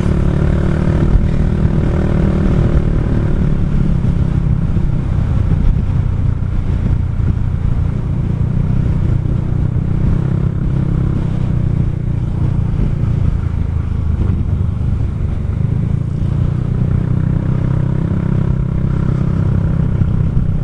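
Kymco Xciting 400i maxi-scooter's single-cylinder engine running steadily at cruising speed while under way.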